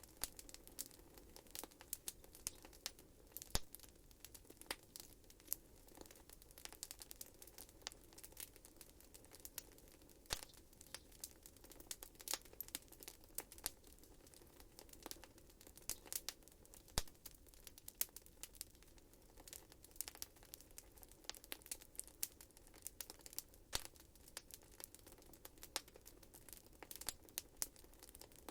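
Wood fire crackling in a fireplace: frequent irregular sharp pops and snaps over a faint steady background hiss.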